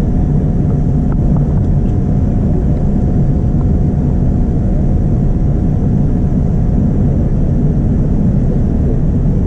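Steady rumble of a Boeing 787-9's jet engines heard inside the passenger cabin, with a faint steady whine above it.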